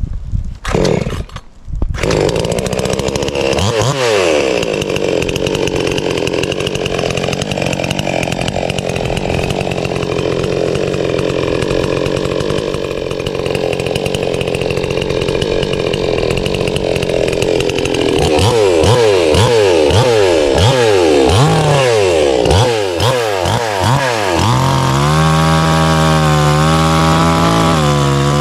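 Chainsaw cutting a notch into a dead pine trunk. It comes in with a few short bursts, then cuts steadily. From about 18 seconds it is revved up and down repeatedly, and it settles into a steady drone for the last few seconds.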